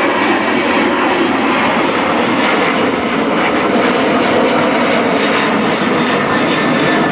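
Jet airliner engine noise: a loud, steady rushing sound with no change in level.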